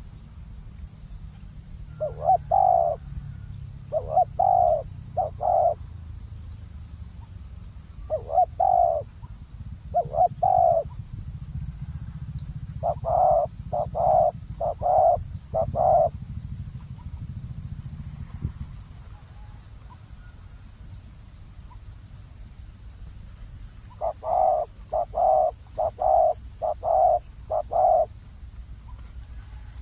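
Spotted dove cooing: repeated phrases of several low coos, with pauses between the phrases and the longest phrase near the end. A few faint, short high chirps from small birds fall in the middle.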